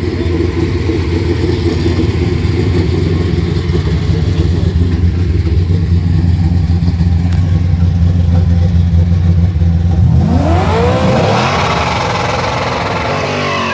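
Drag car engine held at high revs against its rev limiter during a burnout, a loud steady note. About ten seconds in the revs sweep up and fall away as the car moves off.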